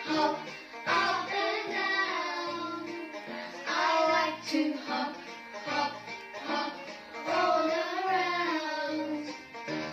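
A children's song: a child's voice singing a melody over instrumental backing.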